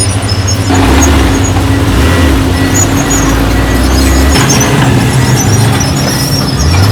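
Diesel engines of heavy earthmoving machinery, a bulldozer and dump trucks, running loud, their note shifting up and down as they work.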